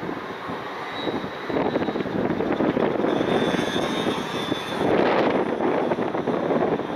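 Aerial fireworks shells bursting, heard from afar as a dense rumble of booms and crackle. It grows louder about a second and a half in and is loudest around five seconds in.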